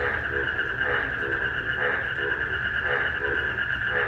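A night chorus of frogs croaking in short repeated calls, a couple a second, over a steady high insect trill from crickets.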